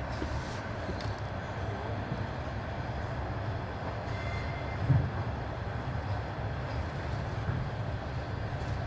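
Passenger train running along the track, a steady rumble of wheels on rails with one louder knock about five seconds in.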